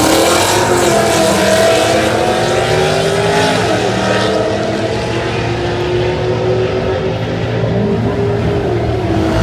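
High-powered car engine at full throttle, accelerating hard: its pitch climbs steeply at the start, then holds high, shifting in pitch partway through and easing down near the end.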